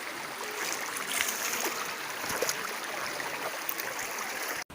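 Shallow hot-spring stream water flowing steadily, cut off abruptly near the end.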